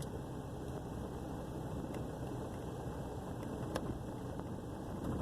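Truck engine idling low and rough, its idle sagging toward a stall just after a restart: a fault the owner says shows only when the engine is first started and clears after two or three stalls.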